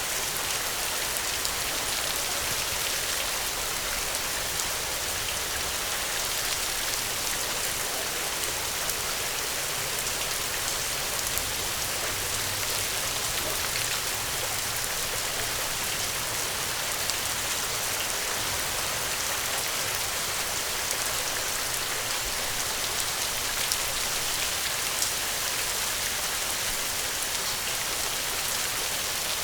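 Steady rainfall, an even hiss of drops with scattered faint individual drop ticks.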